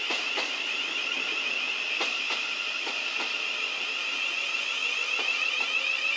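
Slow-moving electric trains: a steady, high-pitched warbling squeal, with pairs of sharp wheel clicks over rail joints a few times in the first half.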